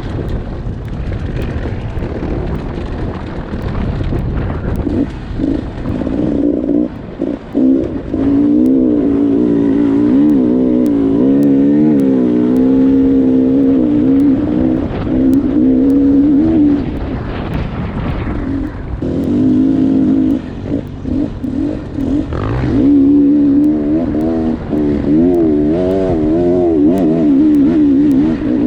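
Dirt bike engine working under load on a climb, its pitch rising and falling quickly as the throttle is worked, with brief drops in the engine note a few times. A low rumble runs under it throughout.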